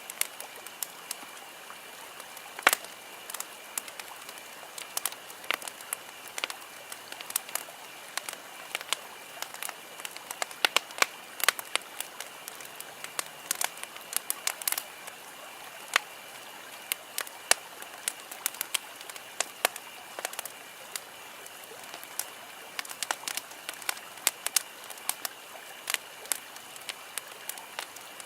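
Wood campfire crackling, with many sharp pops at irregular intervals over a steady low hiss, and a faint steady high tone underneath.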